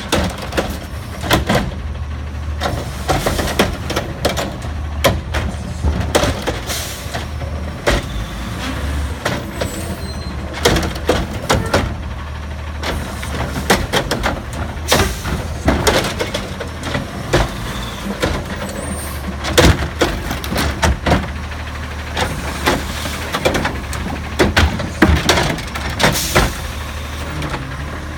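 Autocar ACX garbage truck's diesel engine running steadily, with many irregular bangs and clatters from its Curotto Can arm and the bins.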